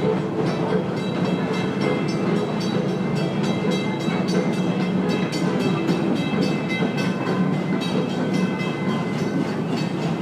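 Amusement-park passenger train running, heard from aboard: a steady rumble and rattle of the cars rolling on the track, with a fast run of small clicks.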